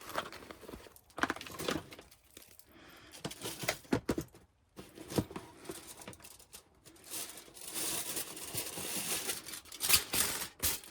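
Packaging crinkling and rustling, with scattered light clicks and knocks as food containers are handled; a longer stretch of steady rustling in the second half.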